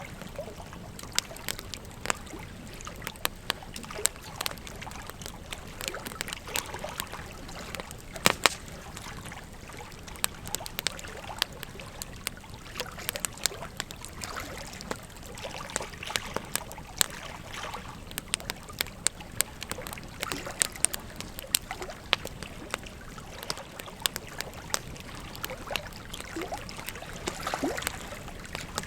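Wood fire crackling, with frequent sharp pops and snaps, over the steady rush of a flowing river.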